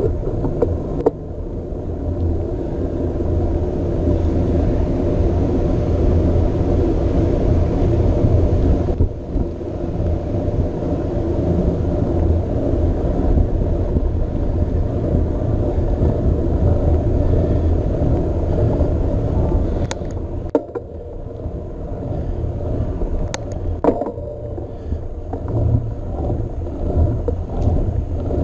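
Steady low rumble of wind on an action camera's microphone mixed with the tyres and frame of a Trek Marlin 7 mountain bike riding along a path, with a few sharp clicks from the bike late on.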